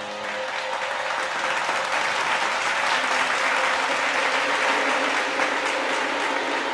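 Audience applause, growing louder about a second and a half in.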